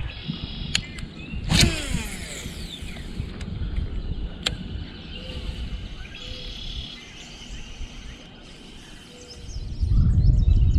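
Outdoor lakeside ambience: a steady low rumble with birds chirping faintly, broken by a few sharp clicks and knocks. The rumble grows louder near the end.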